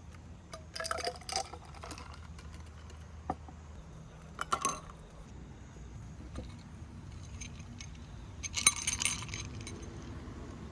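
Glassware clinking in three short bursts of quick clinks: about a second in, around the middle, and a longer flurry near the end.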